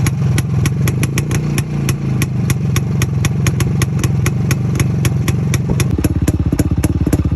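Soviet/Russian-made motorcycle engine running, heard at the exhaust as a low, chopping beat, with a sharp tick about five times a second. The exhaust pulses become more distinct about six seconds in.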